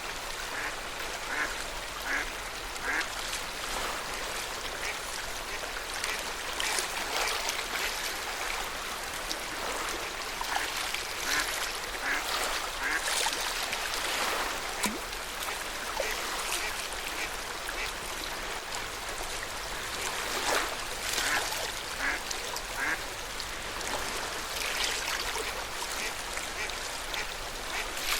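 Lake water lapping and splashing at the shore of Lake Yamanaka, with short, repeated duck-like quacking calls of waterbirds.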